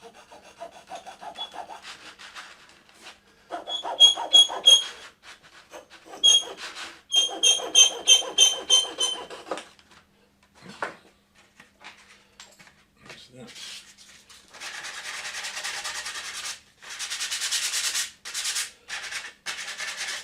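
A blade scraping and trimming excess from a glued 3D-printed plastic part. The rasping strokes come in bursts, with squeaky chirps between about four and nine seconds in, then two longer, steadier scraping stretches near the end.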